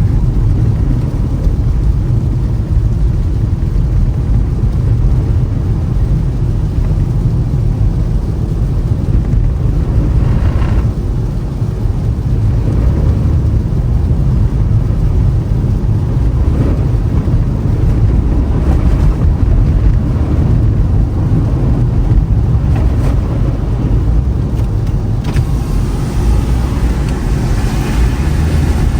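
Toyota Camry driving on a snowy road: steady low rumble of the engine and tyres, with a brighter hiss joining in near the end.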